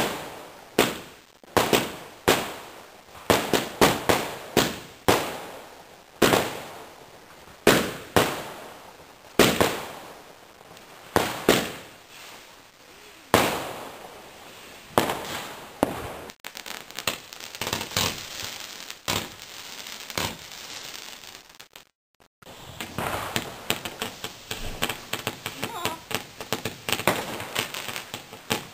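Fireworks going off: a rapid run of sharp bangs from aerial shells bursting, about one or two a second, each fading away in a short echo. About halfway through this gives way to denser crackling and popping, and the sound cuts out for a moment near the three-quarter mark.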